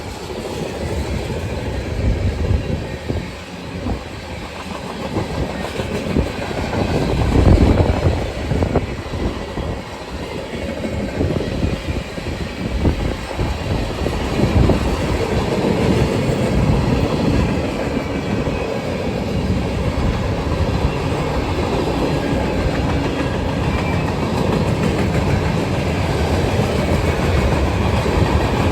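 Manifest freight train's cars rolling past steadily on the rails, a continuous rumble of wheels on track.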